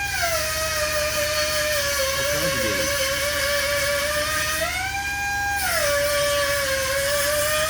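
A car engine running with a loud, steady whine. The pitch drops back right at the start, then rises and holds for about a second around five seconds in as the engine is briefly revved, before falling again.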